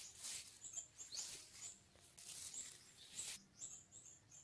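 Small birds chirping in short, high notes, over several bursts of high hiss that die away after about three seconds.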